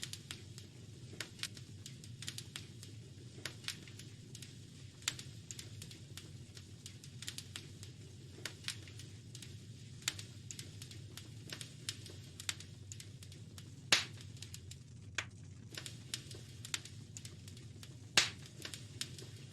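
Fire crackling in a fireplace: a steady low rumble with irregular sharp pops and snaps, and a couple of much louder pops in the second half.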